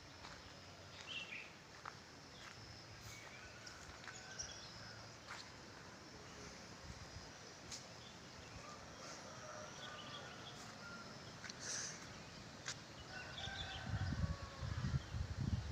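Wild birds chirping and warbling in short, scattered calls over a soft outdoor background, with a few sharp clicks. Low rumbling bumps come in near the end.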